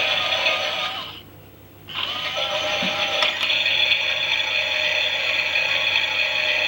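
Toy washing machine's small battery motor and plastic gears running with a wavering whine and gear rattle. It stops for under a second about a second in, then starts again, as the drum pauses and turns once more.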